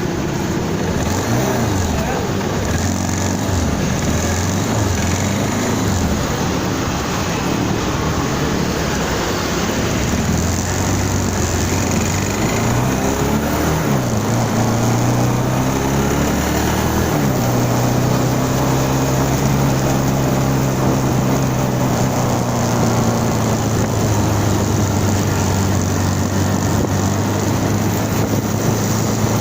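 A vehicle's engine running on the road, its pitch rising and falling with acceleration and gear changes in the first half, then holding steady from about halfway, over constant road and wind noise.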